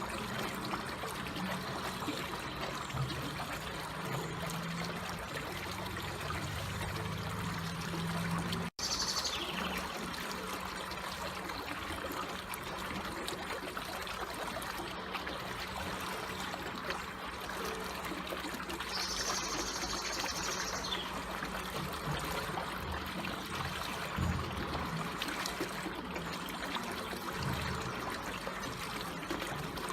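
Water trickling and flowing gently in a steady stream, with a faint low hum underneath; the sound drops out for an instant about nine seconds in.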